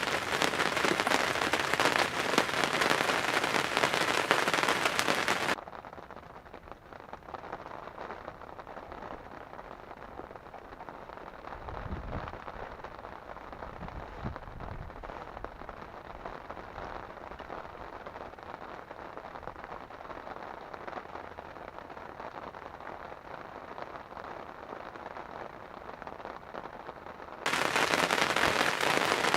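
Heavy rain pattering on a hunting ground blind, a loud, dense crackle of drops close to the microphone. About five seconds in it drops abruptly to a quieter, duller rain hiss, with a couple of brief low rumbles around the middle. The loud close patter returns near the end.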